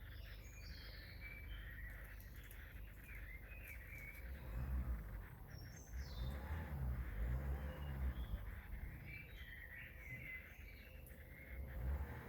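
Small garden songbirds chirping and calling in short phrases, with a low rumble underneath that swells from about four seconds in.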